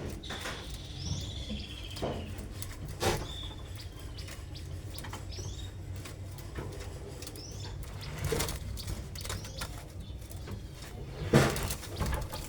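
Canaries giving short, high chirps and calls now and then, with wing flutters and small knocks as they move about. A brief louder noise comes near the end.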